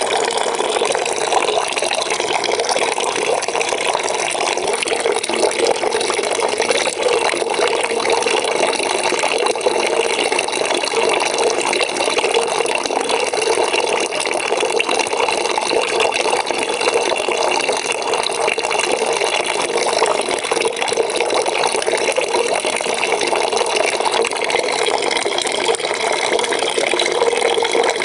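Water pouring steadily into a bucket as it fills, a constant splashing rush with no breaks.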